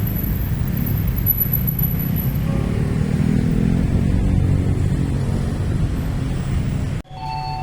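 Diesel locomotive hauling a coal train past, a steady low rumble of engine and rolling wagons. The sound cuts off abruptly near the end.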